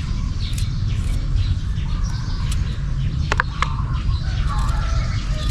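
Small birds chirping and calling over a steady low rumble, with two sharp ticks a little past halfway.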